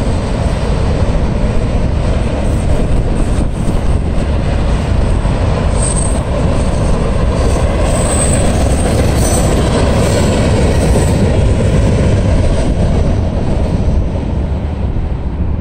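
Freight cars of a Norfolk Southern train rolling past at speed: a steady rumble and rattle of steel wheels on rail. A few brief high wheel squeals come about six to ten seconds in, and the sound eases slightly near the end as the last cars pass.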